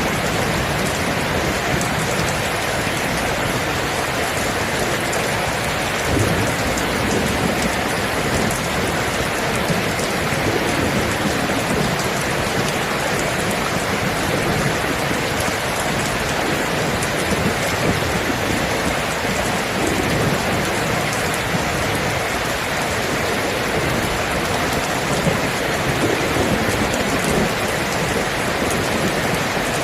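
Steady, heavy rain falling on a surface, with low rolling thunder rumbling underneath.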